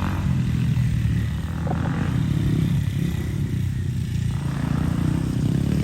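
Dirt bike engine running steadily, its low note wavering slightly as the throttle changes.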